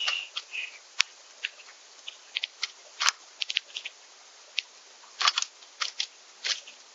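Small birds at a backyard seed feeder: a few short chirps at the start, then irregular sharp clicks and taps, singly and in quick little clusters, from activity at the feeder.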